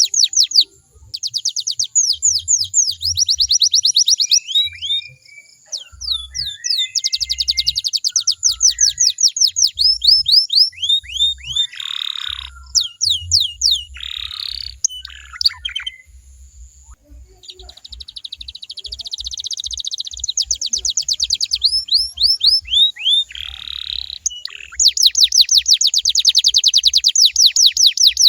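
Domestic canary singing a long song made of fast trills: runs of rapidly repeated down-slurred whistled notes, rattling rolls and a few harsh buzzy notes, with brief pauses between phrases.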